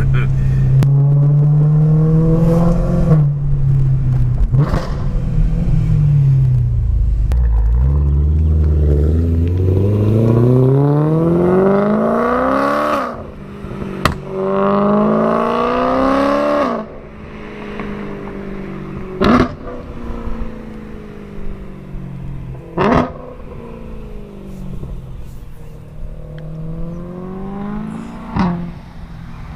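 Supercharged BMW M3 with a catless Remus race exhaust, loud, accelerating hard: the engine note climbs steeply, breaks at a shift about halfway through, and climbs again. It then drops to a lower running note, with a few sharp cracks from the exhaust in the last third.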